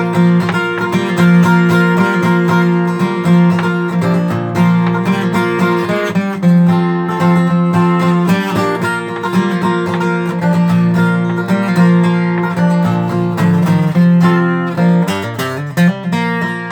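Acoustic guitar strummed in chords, an instrumental lead-in to a country gospel song.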